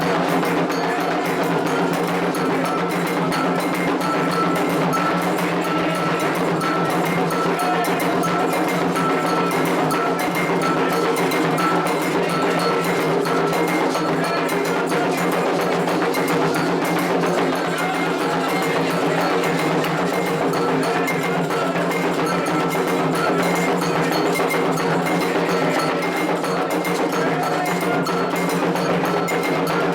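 Candomblé ritual drumming: atabaque hand drums and a struck metal bell (agogô) playing a dense, fast, unbroken rhythm, with the bell ringing steadily over the drums.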